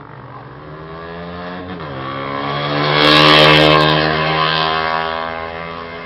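A vehicle's engine drives past close by, growing louder to a peak about three and a half seconds in and then fading away, its pitch dropping once shortly before the loudest point.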